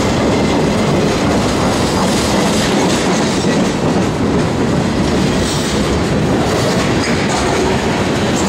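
Freight train boxcars and covered hopper cars rolling past at close range: a loud, steady rumble and clatter of steel wheels on the rails.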